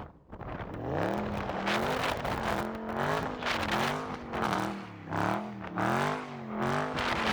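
Car engine revving up and down over and over, its pitch rising and falling about once a second.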